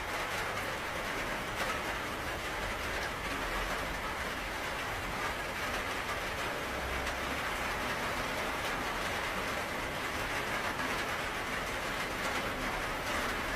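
Steady, dense rainfall: an even hiss with countless fine drop ticks, unchanging throughout.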